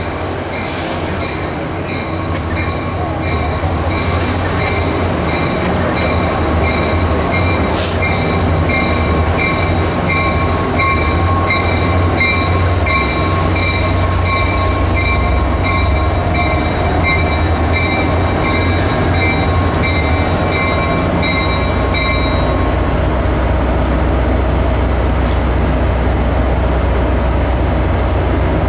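Caltrain diesel locomotive pulling into the station: a low engine rumble growing louder as it nears, with the locomotive bell ringing steadily until it stops about 22 seconds in. Faint wheel or brake squeal over the rumble.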